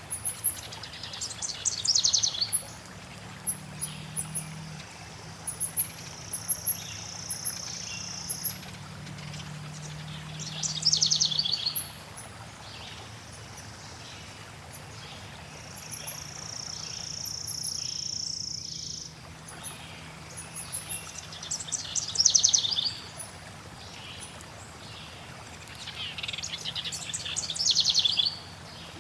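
Forest birds singing over steady flowing water. Loud rapid trills repeat every few seconds, with high chips between them and two long, high, steady notes held for a couple of seconds each.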